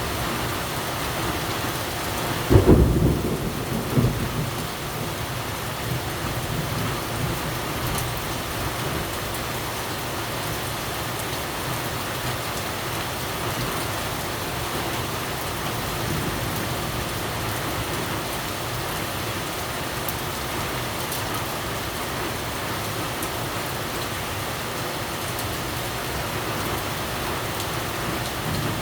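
Steady rain falling on surfaces. A little over two seconds in, a clap of thunder breaks out and rumbles low for about two seconds.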